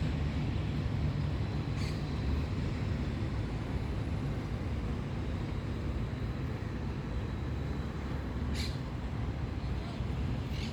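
Steady low rumble of road traffic, with two brief high hissy sounds, about two seconds in and again past eight seconds.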